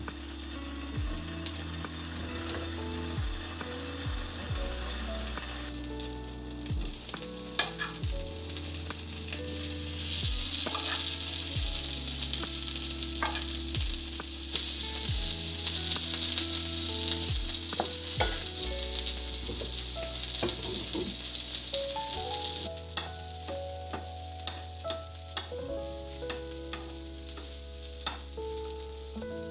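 Food sizzling as it fries in a pan, louder from about six seconds in and dropping back about twenty-two seconds in, with scattered clicks of a utensil being stirred against the pan. Soft background music with plucked notes and a bass line plays under it.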